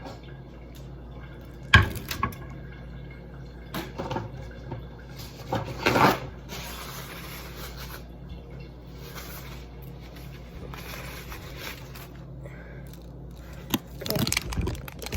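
Tap water running in uneven stretches while a bell pepper is rinsed, with a few knocks and clatters of handling.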